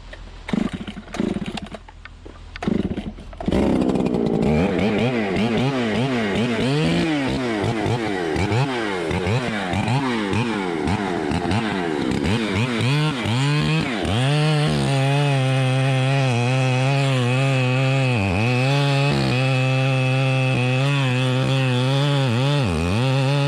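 Two-stroke chainsaw engine: a few short bursts, then it catches and runs about three and a half seconds in. Its speed surges up and down for about ten seconds before it settles into a steady run, dipping briefly twice near the end.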